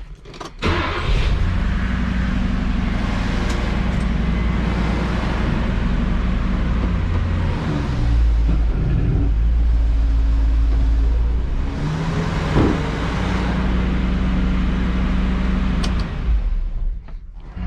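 Electric seat motor running steadily as the seat is driven forward, its pitch shifting midway before it stops near the end.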